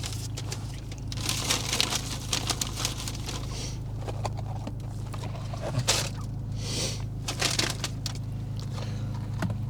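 Rustling and crinkling of paper or plastic food packaging being handled, in a string of short irregular bursts over a steady low hum.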